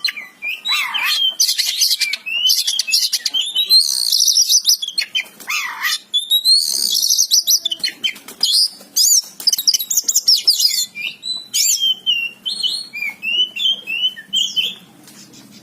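Oriental magpie-robin (kacer) in full song: a loud, varied run of quick whistled phrases, sweeps and trills, turning softer and lower-pitched near the end.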